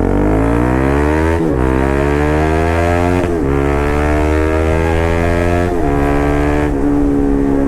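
Bajaj Pulsar RS200's single-cylinder engine and exhaust accelerating hard. Its pitch climbs through each gear, with a quick upshift about a second and a half in, another after about three seconds and another near six seconds, then holds fairly steady.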